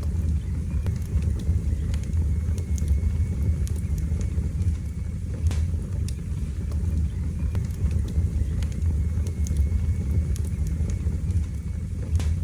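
Wood fire burning in a fireplace: a steady low rumble of the flames with scattered sharp crackles and pops, one louder pop about halfway through.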